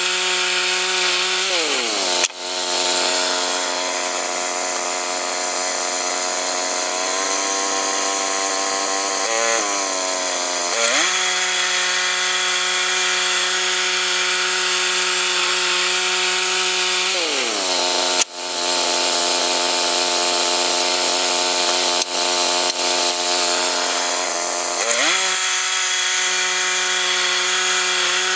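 Two-stroke chainsaw running at high speed. Its pitch drops about two seconds in and again about two-thirds of the way through, with a sharp knock each time, holds lower for several seconds as the saw works under load in the wood, then climbs back up as it frees.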